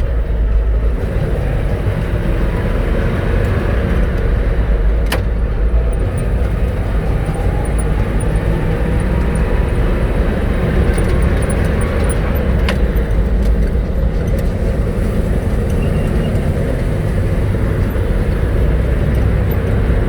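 1969 Chevrolet fire truck under way, its engine and drivetrain giving a steady heavy low rumble with road noise, heard from on board. Two sharp clicks or rattles come about 5 and 13 seconds in.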